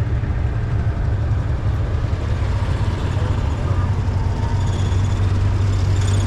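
A motor vehicle engine running steadily close by, a low rumble that settles into a steadier hum about two-thirds of the way in.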